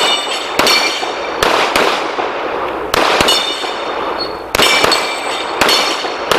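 Pistol shots at steel targets, about ten, often two in quick succession and a second or so between pairs. Several hits are followed by the ringing of struck steel plates.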